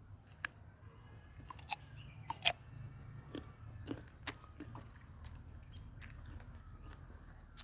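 A person chewing a bite of soft, ripe guava: irregular wet smacks and sharp clicks from the mouth.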